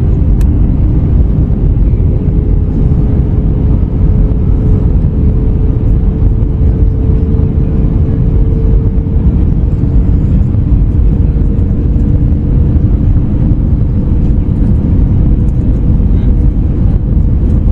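Airliner cabin noise inside an Airbus A321neo with Pratt & Whitney PW1100G geared turbofans: a steady, loud rumble of engine and airflow noise with a faint steady hum running through it.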